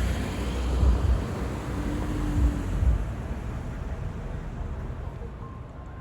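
Street traffic noise: a vehicle's rumble mixed with wind buffeting the microphone, dying down after about three seconds to a steadier, quieter hum.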